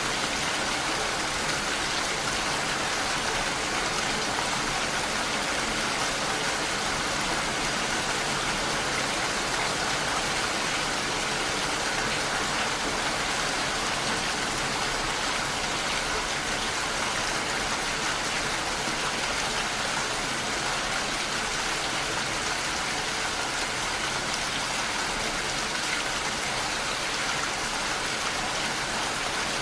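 Steady rainfall, an even hiss of rain that neither builds nor fades.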